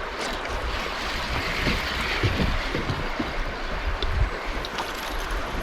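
Wind buffeting the microphone in irregular low gusts, with water washing around a kayak.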